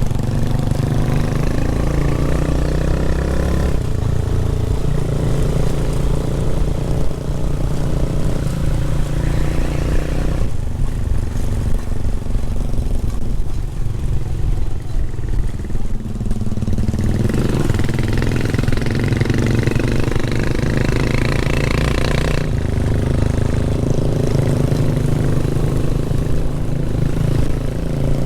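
Motorcycle engine running steadily while riding, its note changing every few seconds as the throttle is eased and opened again.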